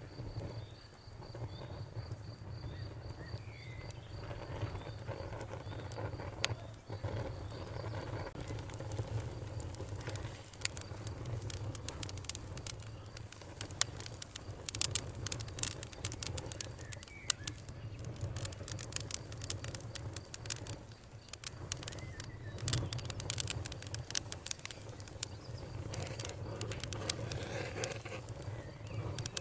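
Wood campfire crackling and popping over a low, steady rumble of burning, the pops coming thicker from about ten seconds in. A cricket trills steadily through the first several seconds, and a bird chirps briefly now and then.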